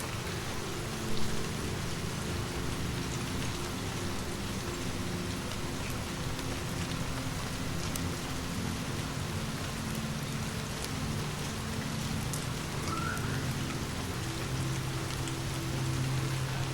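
Steady rain falling over a low rumble of distant thunder, with scattered small fireplace crackles and one short, louder pop about a second in.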